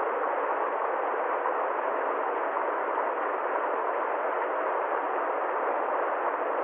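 A steady, even rushing noise with no tone, rhythm or change, lacking both deep bass and high hiss.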